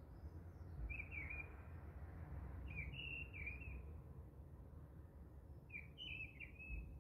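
Small birds chirping in three short bursts of quick high chirps, over a steady low rumble.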